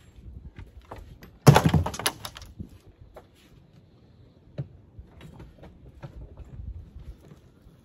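Demolition noise from a pop-up camper being torn apart. A loud crash and clatter comes about a second and a half in and lasts about a second, then scattered knocks and thumps follow.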